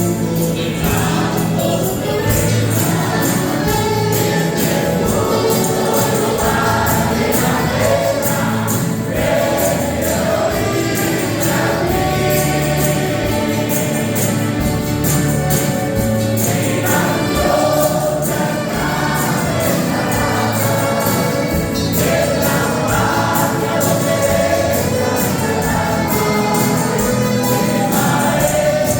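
A men's church choir singing a gospel hymn in several voices over instrumental accompaniment, with a light tambourine-like jingle in the beat.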